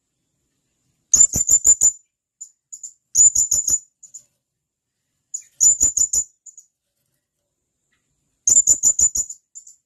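Blue-crowned hanging parrot (serindit) calling in sharp, very high-pitched bursts: four quick runs of four or five notes each, spaced about two to three seconds apart, with a few faint single notes between them.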